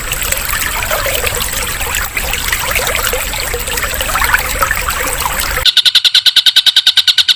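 Recording of trickling, running water used as a calming interlude. About five and a half seconds in it cuts off abruptly and a loud, high-pitched pulsed call takes over, about ten even pulses a second.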